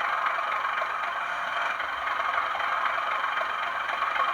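Bachmann Class 37 model locomotive's DCC sound decoder playing its diesel engine sound through the model's small on-board speaker, steady throughout, while the loco runs its auto-uncouple cycle, easing back and then forward.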